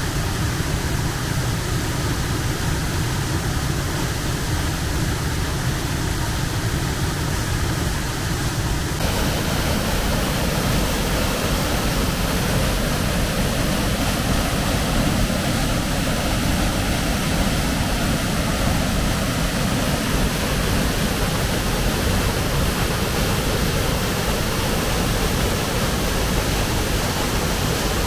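Waterfall rushing in a steady, even roar of falling water, which turns abruptly brighter and fuller about nine seconds in.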